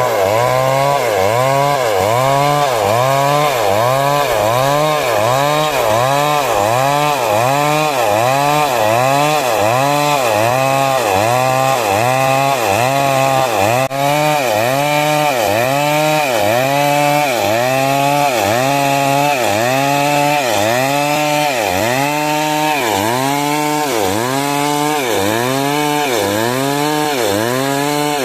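Stihl MS 382 two-stroke chainsaw running at high revs while cutting through wood. The engine pitch sags under the load and picks up again over and over, in a steady rhythm.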